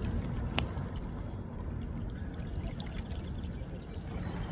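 Water splashing and trickling against shoreline rocks, with one sharp click about half a second in.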